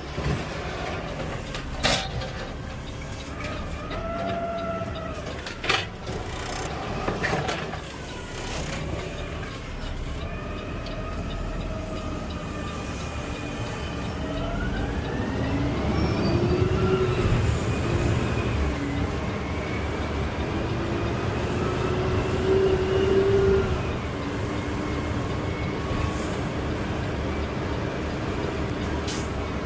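CNG-powered Peterbilt 520 automated side-loader garbage truck running, with a whine that glides up and down in pitch as the truck speeds up and slows. It grows louder through the middle, and a few sharp knocks come in the first several seconds.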